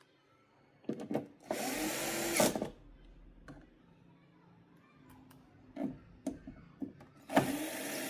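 A small handheld power tool running in two short bursts of about a second each, with clicks and knocks between them.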